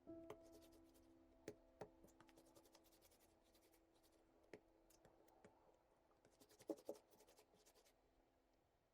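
Near silence with faint handling sounds: a few light taps and clicks, the loudest two close together about seven seconds in, and soft scraping, over faint steady tones that fade after the first few seconds.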